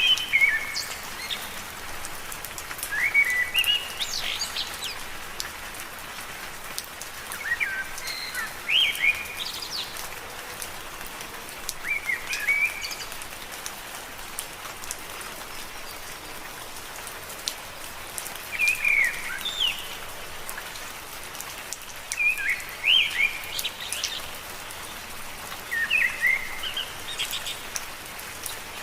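Steady rain falling on leaves, with scattered drops ticking. A bird calls in short phrases of quick rising and falling chirps, repeated every few seconds.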